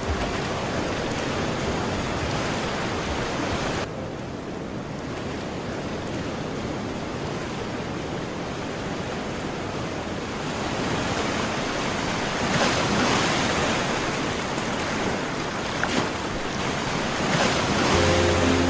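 Ocean surf washing onto a beach, a steady rush with waves swelling louder a little past halfway and again near the end.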